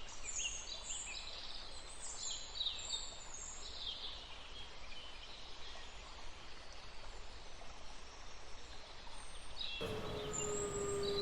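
Ambient forest soundscape: small birds chirping over a steady background hiss. Near the end the background suddenly changes to a louder noise bed, and a long steady low tone enters.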